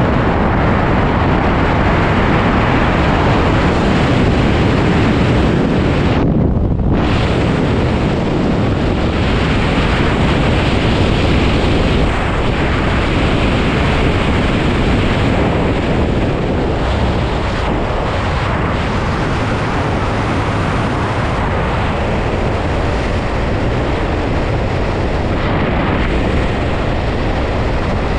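Loud, steady rush of wind buffeting a skydiver's camera microphone, with a brief dip in the hiss about six seconds in.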